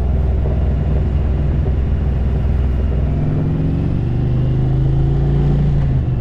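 Motorcycle V-twin engine running under way, the 2021 Indian Roadmaster Dark Horse's. It pulls steadily, its pitch rising gradually from about halfway through, then dipping near the end as the throttle eases or it shifts.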